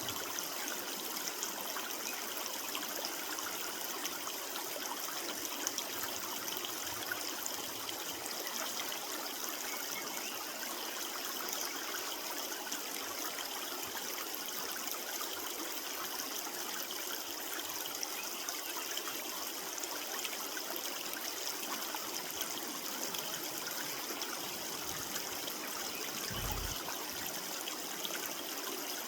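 Creek water running steadily over stones, an even trickling rush with no change throughout.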